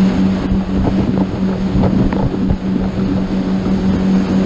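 Motorboat engine running steadily at a constant pitch under way, with wind buffeting the microphone and water rushing past the hull.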